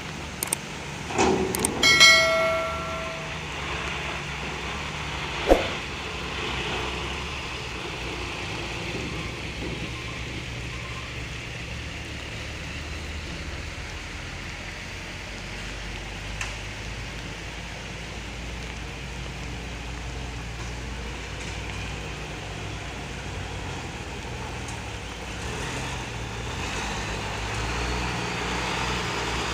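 Heavy truck engine running at low revs, its pitch shifting slightly. In the first few seconds come a few sharp metallic knocks, one followed by a brief ringing tone.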